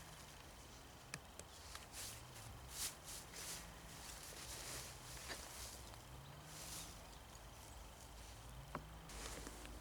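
Footsteps crunching in snow: a handful of irregular, faint steps. A faint low hum rises and falls in pitch underneath.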